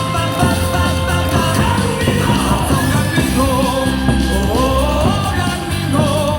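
Baseball stadium cheering song played loud over the PA, with a steady beat and fans singing along.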